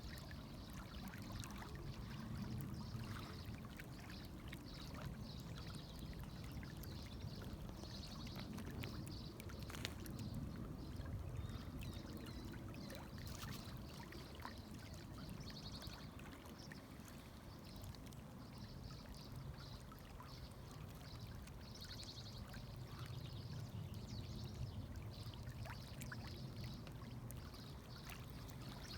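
River water running over rocks, a faint steady rush.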